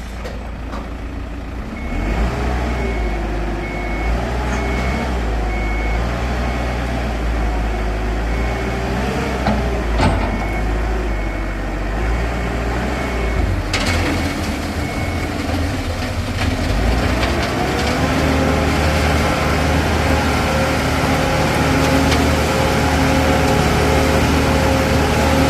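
Heavy diesel engine running with its speed rising and falling, over an evenly repeating reversing-alarm beep that stops about fifteen seconds in. The engine then settles to a higher, steady speed, with a couple of sharp knocks along the way.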